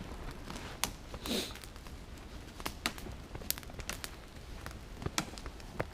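Campfire of birch bark and small twigs crackling, with scattered sharp pops at irregular intervals and a short hiss about a second in.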